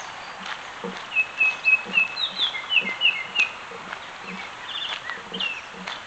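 A songbird sings a short phrase of repeated clear notes and quick down-slurs, starting about a second in; it is the loudest sound here. Under it run steady footsteps on a crushed-gravel trail, about two steps a second.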